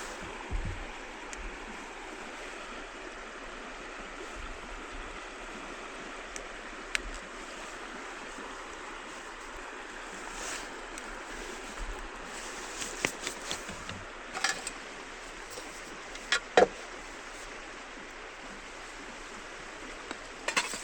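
Steady rush of a flowing river, with a few sharp clicks or knocks scattered through it, the loudest pair about three-quarters of the way through.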